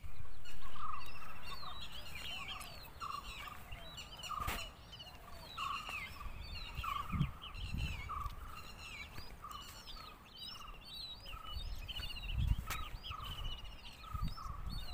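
Several birds calling and singing together: a lower note repeated steadily about every three-quarters of a second, over high chirps and trills. Wind rumbles on the microphone now and then, most near the end.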